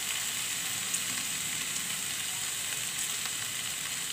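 Spiced mashed-potato filling frying in oil in a pan: a steady sizzling hiss with a few faint ticks.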